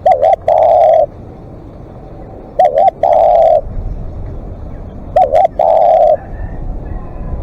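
Spotted dove, a decoy bird, cooing. Each call is a quick two-part note followed by a long, level coo, repeated about every two and a half seconds, three times, with a fourth call starting at the end.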